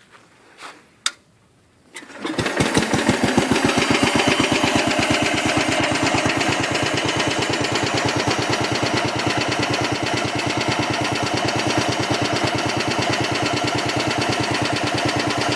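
A few soft steps and a sharp click, then the 1968 Case 195 garden tractor's 12 hp Kohler single-cylinder engine starts about two seconds in. It catches at once and runs steadily with a fast, even beat.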